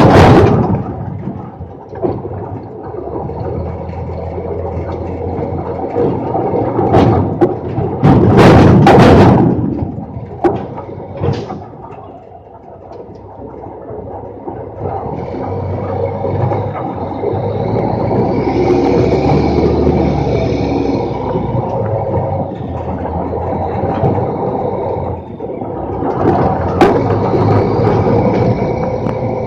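Roll-off truck's diesel engine running under hydraulic load while its hoist moves a 34-yard self-contained compactor box, the steel container clanking and scraping on the truck. Loud metal bangs come at the very start and again about eight to nine seconds in, and a hiss rises and falls around the middle.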